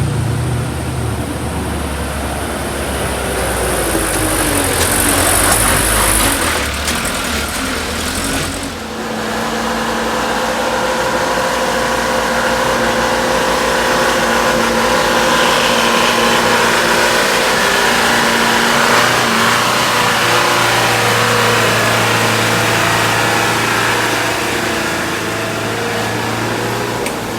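Motor vehicle engines running on a steep climb. Rumbling and noisy at first, then about nine seconds in the sound changes abruptly to a steady, held engine note.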